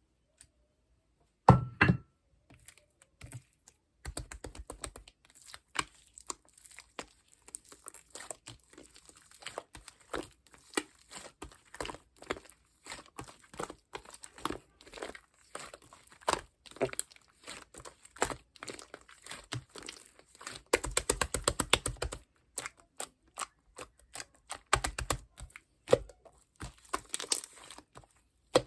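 Hands squishing and stretching shaving-foam marbled slime, making a stream of sticky clicks and pops. It opens with a single thump about a second and a half in, and there is a dense run of rapid clicks about three quarters of the way through.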